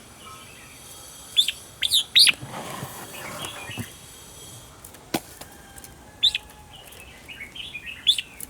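Red-whiskered bulbuls giving short, sharp chirping calls: a quick cluster about a second and a half in, another around six seconds, then a run of softer quick notes near the end. A single sharp click sounds about five seconds in.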